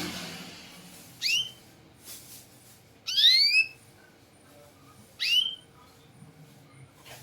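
Domestic canary giving three rising whistled chirps about two seconds apart, the middle one longer and made of several quick upward sweeps.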